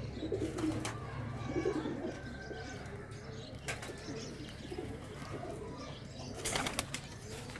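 Domestic pigeons cooing, mostly in the first couple of seconds, over a steady low hum, with a short rustling burst near the end.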